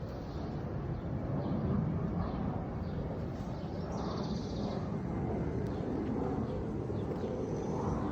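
Outdoor woodland ambience: a steady low rumble, with a bird calling briefly about four seconds in.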